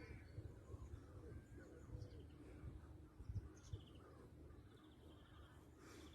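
Faint bird chirps and short trills, scattered and quiet, with a couple of soft low thumps a little past the middle.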